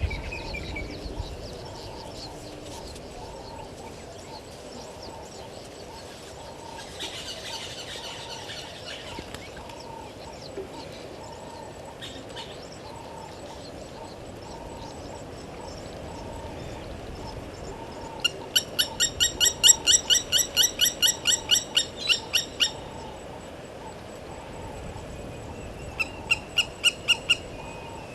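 A wild bird calling a fast run of loud, sharp repeated notes, about four or five a second, for several seconds, then a shorter run of the same notes near the end. Underneath, a soft low note repeats steadily, a little more than once a second.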